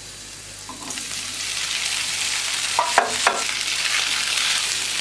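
Boiled macaroni sizzling in hot oil in a nonstick frying pan as it is stirred in with a silicone spatula. The sizzle starts softly and grows from about a second in as the macaroni goes in, with a few sharp knocks of the spatula against the pan about three seconds in.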